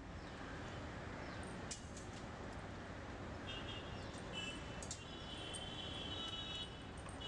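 Steady background hiss with small birds chirping repeatedly in the middle and later part, and a few light clicks.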